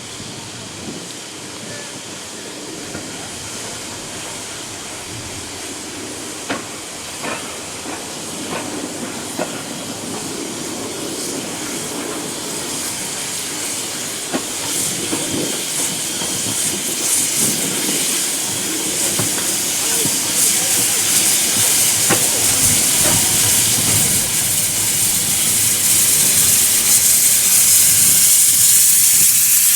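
Steam locomotive hissing steam, the hiss growing steadily louder toward the end, with a few sharp clicks in the first third.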